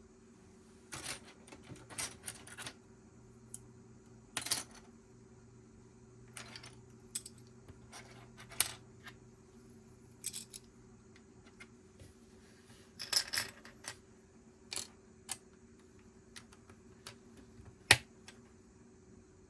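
Plastic Lego pieces clicking and clattering as they are handled and snapped together, in scattered short clicks and brief rustling clusters. The sharpest single click comes near the end.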